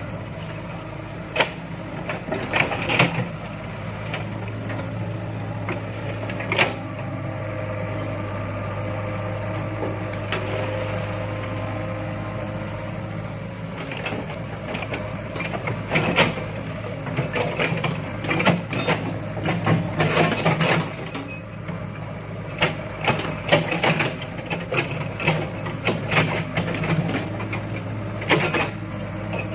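Excavator engine running steadily under load, with many sharp knocks and clanks from the working bucket and arm. The knocks come in a dense run through the second half, as the machine digs out palm stumps.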